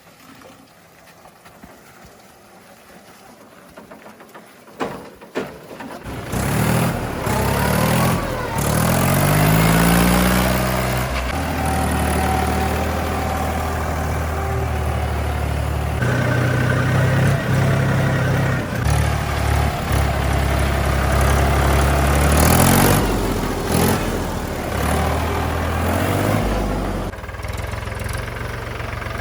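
Diesel engine of a tractor or backhoe loader: after a few quiet seconds with a couple of knocks, it comes in loud about six seconds in and revs up, its pitch rising, then runs hard and steady, dropping back to a lower, steadier running near the end.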